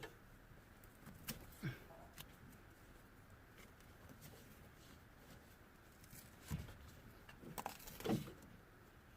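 Quiet handling of a car's wiring harness as its tape and insulation are cut and pulled away: a few light clicks and rustles, the loudest about eight seconds in.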